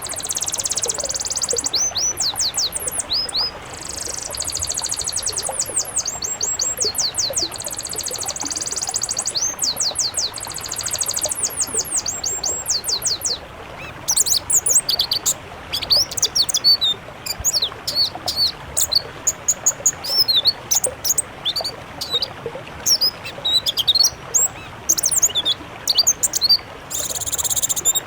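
Songbird song, high-pitched and dense: for the first half, fast runs of rapidly repeated notes; from about halfway, separate varied chirps and whistles.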